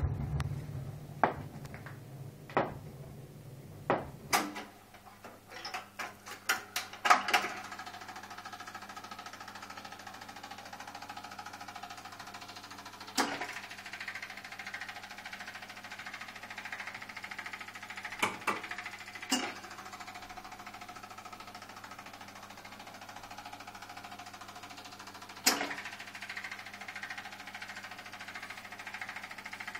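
Seeburg ELPC-1 record mechanism after the record ends. The stylus ticks in the run-out groove about once every 1.3 s, which fits a turn of a 45 rpm record. Then a burst of clicks leads into a steady mechanical whirr with a low hum and occasional clicks and knocks.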